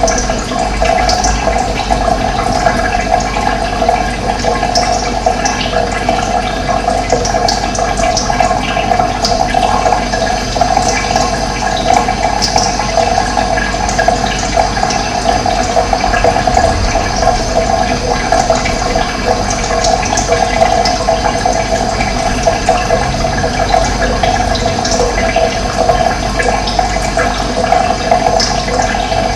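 Running water flowing steadily, a continuous gurgling rush.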